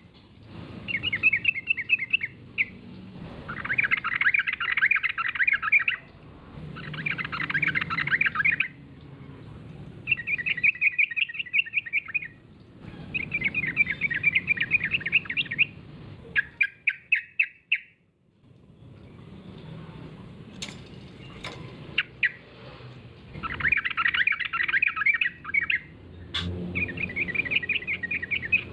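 Yellow-vented bulbul (trucukan) singing in repeated bursts of fast, bubbly chattering phrases, each a second or two long with short pauses between. A few sharp clicks come about two-thirds of the way through, and a single knock near the end.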